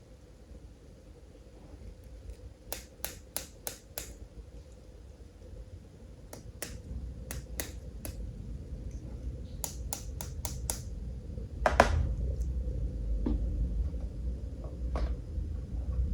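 Sharp clicks and taps of small plastic toys being handled, coming in quick runs of four or five. A louder clatter follows about twelve seconds in. A low rumble rises underneath in the second half.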